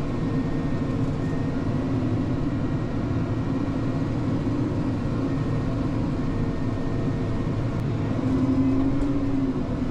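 Bergmann C912s tracked dump truck's diesel engine running steadily under load as the truck crawls through mud; about eight seconds in, its note rises a little and gets louder.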